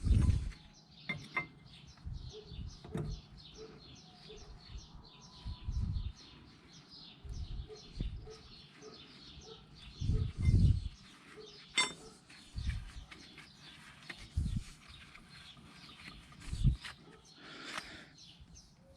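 Scattered knocks and metal clinks of tools and parts being handled on a car's front wheel hub, with a sharp click about twelve seconds in. Birds chirp in the background.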